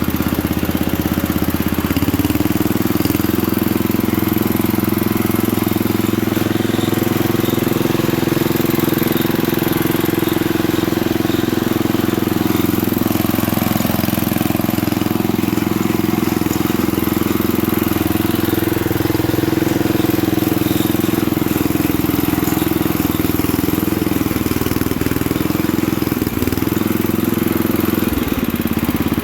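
A 1967 Unico garden tractor's 7hp Briggs & Stratton single-cylinder engine running steadily on its freshly rebuilt carburetor. Its speed dips briefly a few times, most clearly near the end.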